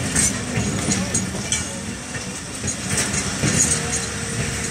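Train rolling along the platform, a steady rumble with irregular clicks and clacks from the wheels on the track. A faint steady squeal comes in near the end.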